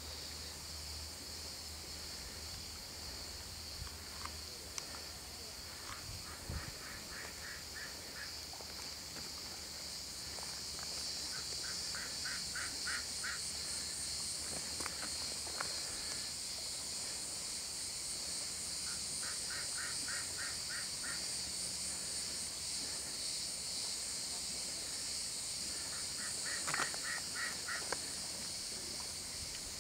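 Outdoor ambience with a steady high-pitched buzz throughout. Over it a bird calls four times, each a short run of quick, evenly spaced notes.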